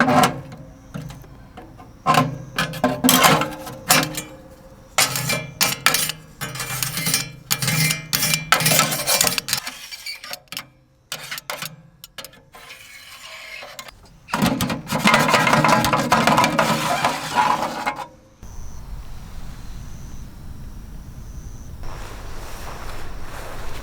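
Hard metal objects clinking and clattering in a quick series of knocks, then, after a sudden change, a steady low rushing noise.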